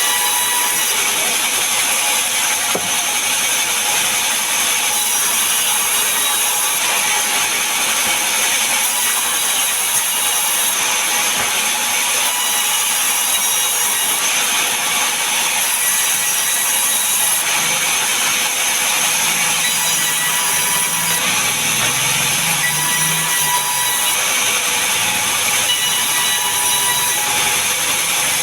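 Power saw cutting mahogany and pine wood, a steady continuous sawing noise.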